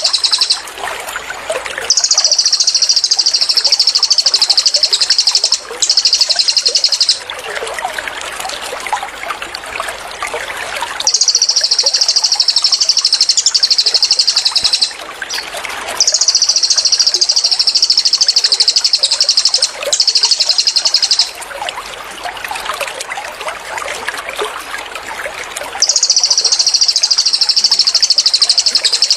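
Cililin songbird giving its rapid, high-pitched 'tembakan' trills, about six bursts of one to four seconds each with short pauses between them, over a continuous background of trickling, babbling water.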